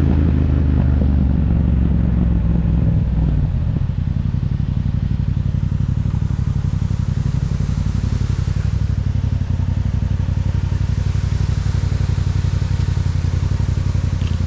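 Yamaha MT-07's parallel-twin engine through an Akrapovic aftermarket exhaust, running at a steady low speed. About three and a half seconds in it drops to a lower, evenly pulsing idle.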